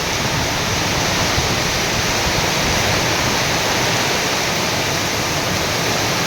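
Heavy monsoon rain pouring down in a steady, loud, even hiss.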